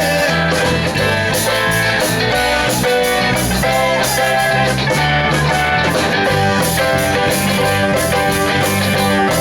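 Live rock band playing an instrumental closing passage: electric guitar strumming over bass and a steady drum beat.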